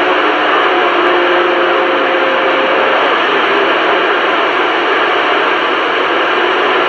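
CB radio receiver putting out loud, steady static hiss from an open channel. Faint steady whistle tones sit in it for the first three seconds.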